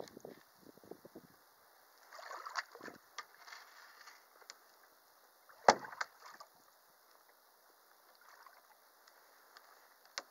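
Canoe on a lake: soft swishes of water and light knocks against the hull, with one sharp, loud knock about five and a half seconds in.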